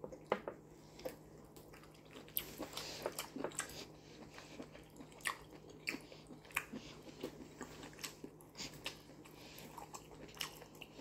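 Close-up eating sounds: chewing and mouth smacks, heard as irregular short clicks, as assorted meat and efo riro vegetable soup are eaten by hand.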